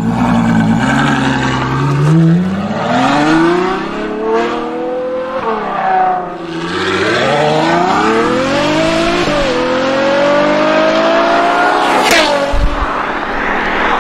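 Ferrari GTC4Lusso's 6.3-litre V12 accelerating hard: the engine note climbs through the revs, drops at a gear change about six seconds in, then climbs again. A sharp crack comes about twelve seconds in, followed by a steadier, noisier engine sound.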